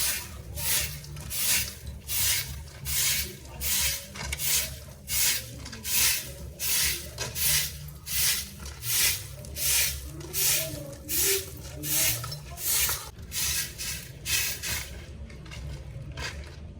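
Rhythmic rubbing strokes, about one and a half a second, like scrubbing or sweeping, which stop near the end.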